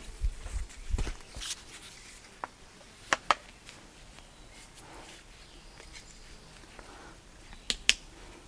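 Sharp clicks and knocks of pipe fittings being handled: a few low bumps in the first second, two quick clicks about three seconds in and two more near the end.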